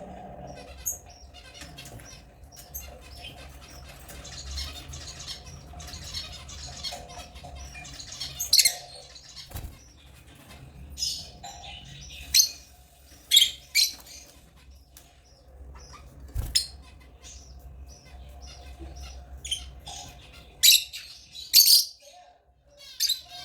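Lovebirds chirping: short, sharp, high chirps in irregular bursts, with several loud ones in quick pairs.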